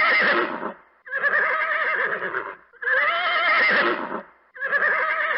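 A horse whinnying several times in a row. Each call is wavering and lasts about a second and a half, with short breaks between them.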